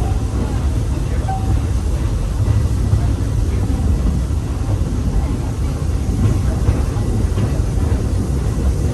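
Walt Disney World Railroad passenger train running along the track, heard from aboard a car: a steady low rumble of wheels on the rails.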